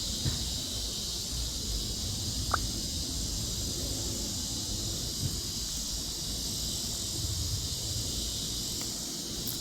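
Chorus of cicadas: a steady, high-pitched drone, over a low rumble, with one short chirp about two and a half seconds in.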